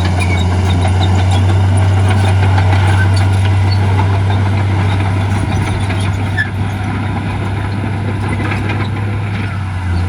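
Heavy diesel earthmoving equipment running steadily, a constant low engine drone.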